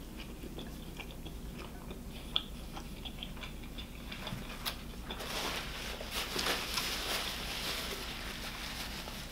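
Close-miked chewing of a mouthful of triple bacon cheeseburger, with small wet mouth clicks. About five seconds in, a paper napkin rustles as it wipes the mouth.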